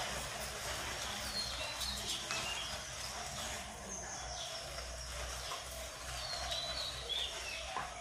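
Birds chirping: a few short high calls, some sliding down in pitch, scattered over a low steady rumble.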